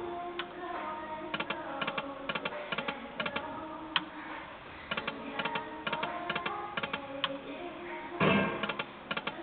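Timber Wolf video slot machine spinning its reels: quick clusters of clicks as the reels play out, with short electronic tones and jingles. There is a louder burst about eight seconds in.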